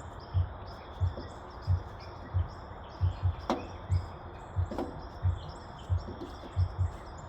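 Birds chirping over a regular low thudding, about one and a half thuds a second, with a few sharp clicks in between.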